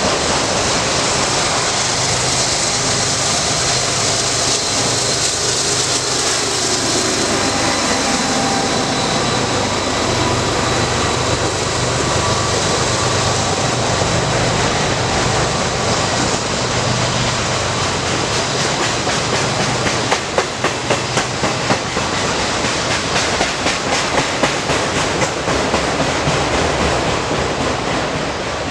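Freight train rolling past on the Norfolk Southern main line: a steady, loud rumble of wheels on rail with a low hum. About two-thirds of the way through, a rhythmic clickety-clack of wheels sets in, about three clicks a second.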